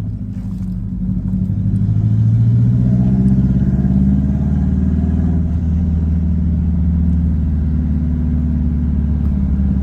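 Subaru Impreza WRX STI (GDB-F) flat-four turbo engine heard through an unequal-length twin-scroll exhaust manifold, de-catted, with a straight-through silencer, giving an uneven boxer rumble while driving. About a second in it pulls harder, rising in pitch and loudness, then holds a steady loud note. The straight-through silencer makes the exhaust sound break up (distort).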